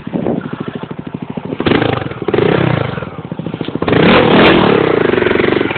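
340cc Honda Tornado single-cylinder motorcycle engine, idling with an even beat, then revved up twice. The second rev is louder and held longer, easing off near the end.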